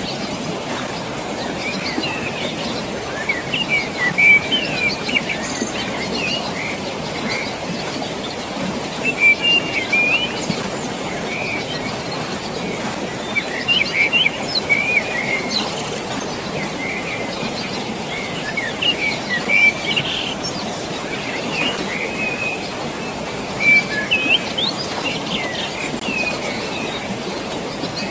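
Many songbirds chirping and calling in short bursts throughout, over the steady rush of flowing water.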